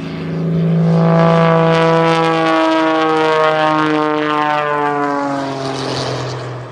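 Propeller airplane flying a low pass, its engine note swelling loud about a second in and then dropping slowly in pitch as it goes by.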